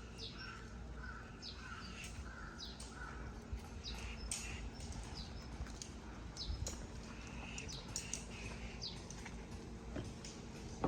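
Several wild birds chirping and calling, with short, quick downward chirps scattered throughout and a run of repeated lower notes in the first few seconds.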